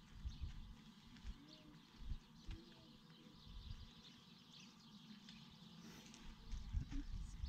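Faint chirping of small birds, with irregular soft low thumps.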